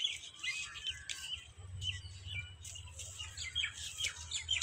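Small birds chirping, many short calls in quick succession, over a low steady hum.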